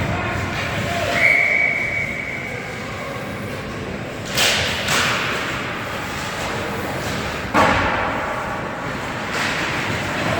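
Referee's whistle blowing one short steady blast about a second in, then two sharp knocks from play on the ice, the second the louder, over steady arena background noise.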